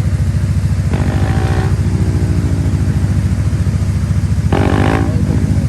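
A motorcycle engine idles close by with a steady, loud throb. Other bikes rev up briefly about a second in and again near the end, and one engine note falls away gradually after about two seconds.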